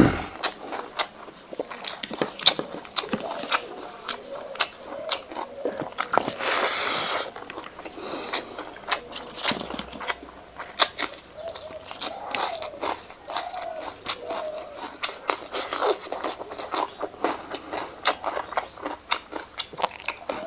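Close-miked eating: wet chewing, lip-smacking and many sharp mouth clicks as a person chews rice and fatty pork belly taken up by hand, with a short noisy breath or slurp about six seconds in.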